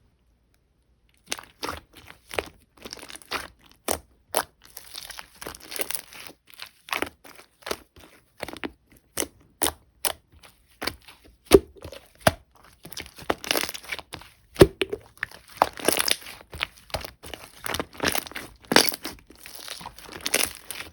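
Thick, chewy slime being squeezed, stretched and pressed by hand, giving a dense run of sticky pops and crackles. It starts about a second in and grows busier and louder in the second half.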